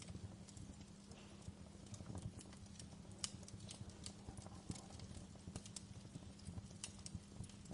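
Wood fire crackling in a fireplace: irregular sharp pops and snaps over a low, soft rumble of burning, with a faint steady hum underneath.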